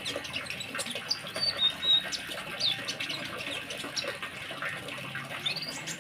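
Small songbird chirping in short, high notes, some rising or falling, over a steady hiss of running or splashing water.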